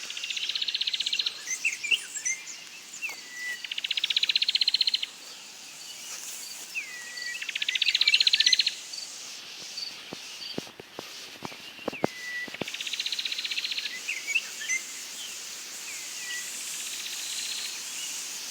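Wild birds singing: a rapid trill of about a second repeats every three to four seconds, with short rising chirps between, over a steady high-pitched hiss.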